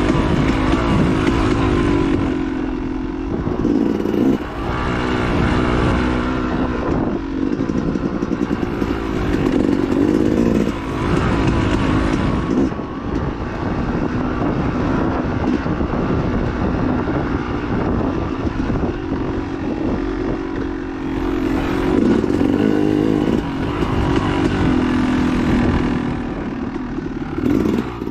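Dirt bike engine running hard, its revs rising and falling again and again as the throttle is opened and closed.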